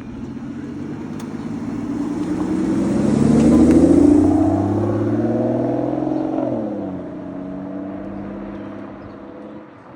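A car's engine driving past under acceleration: it grows louder to a peak about four seconds in, its revs climb and then drop away sharply about six and a half seconds in, and the sound fades.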